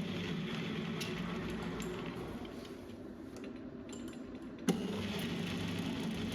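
A workshop machine's motor running with a steady hum. It drops away for a couple of seconds, then a sharp metallic click comes and the hum picks up again.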